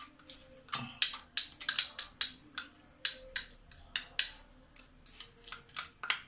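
Metal spoon and cookware clinking and knocking irregularly, several sharp clinks a second, as a popcorn-kernel and ghee mix is scraped from a bowl into a hot pressure cooker.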